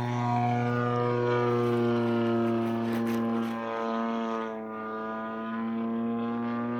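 DLE 55cc single-cylinder two-stroke gas engine on a radio-controlled airplane running steadily in flight, its propeller buzz sagging a little in pitch midway and climbing again near the end.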